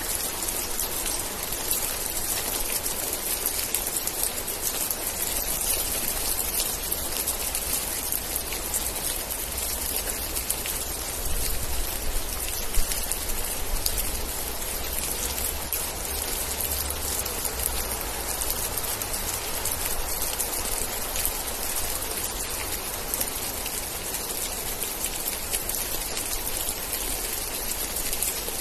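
Steady heavy rain with many close drops ticking on a surface, over a low rumble that swells for a few seconds around the middle.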